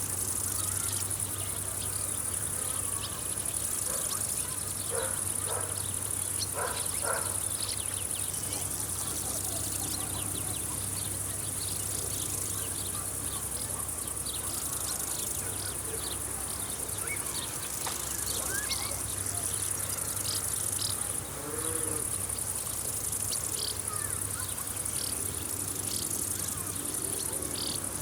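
Summer field insects chirring steadily in a high continuous drone that swells and eases, with scattered short bird calls over it.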